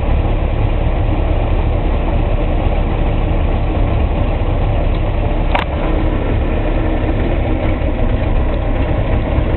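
Volvo Penta boat engine running steadily just after starting, with one sharp click about five and a half seconds in.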